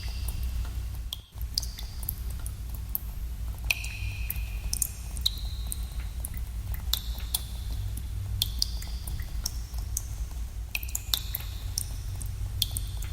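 Water drops falling in a cave at irregular intervals, a couple a second, each a sharp plink with a brief ringing pitch, over a steady low rumble.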